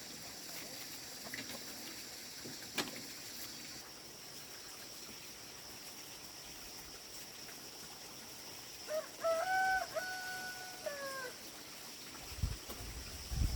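A rooster crowing once, about nine seconds in: a single two-second cock-a-doodle-doo that rises, holds steady, and falls away at the end.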